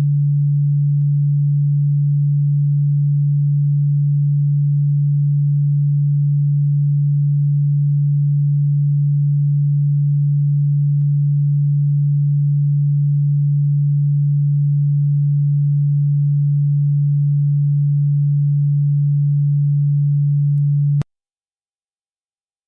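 A steady, low, pure electronic tone of unchanging pitch, a deep hum a little under 150 Hz, played loud as a so-called pest-repellent frequency. It cuts off abruptly near the end.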